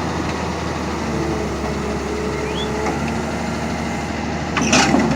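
Heavy machine engine running steadily, with a short louder burst of noise near the end.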